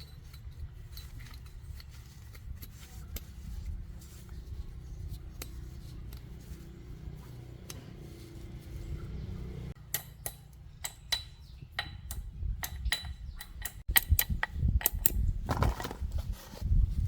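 A low steady rumble, then from about ten seconds in a run of sharp metallic clicks and knocks, like tools working on metal parts. The knocking grows louder and more irregular in the last few seconds.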